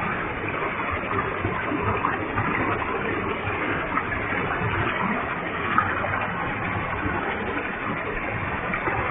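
Waterfall with a heavy flow of water, a steady even rush of falling and splashing water.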